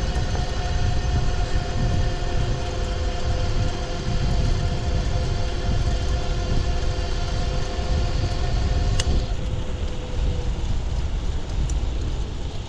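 Rad Power Bikes e-bike's 500 W hub motor whining in several steady pitches over a low rumble of wind and tyre noise. The whine dies away between about nine and ten seconds in, just after a faint click.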